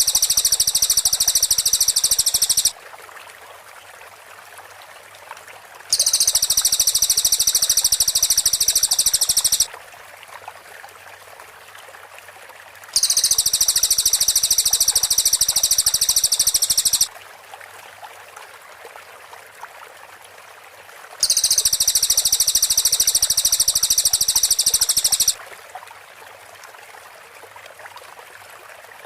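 Cililin birds' close-set 'shot' song: a high, dense, rapid trill lasting about four seconds, repeated four times with short pauses of faint hiss between. It plays as a looped training recording for songbirds to copy.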